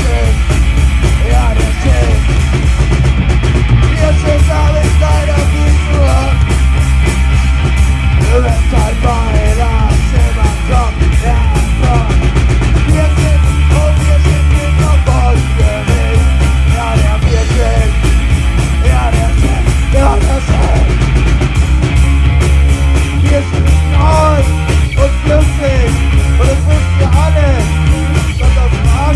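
Punk rock band playing loud and without a break, with a shouted, sung vocal line over the band.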